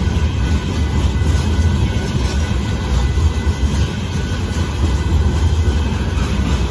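Loaded covered hopper cars of a Union Pacific gravel train rolling past over a grade crossing: a steady, loud low rumble of steel wheels on rail.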